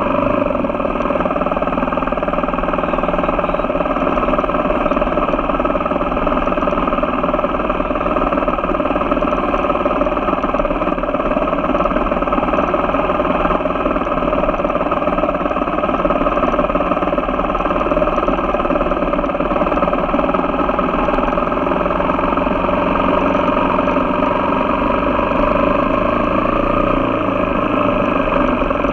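Motocross motorcycle engine running steadily under way, its pitch shifting slightly near the end.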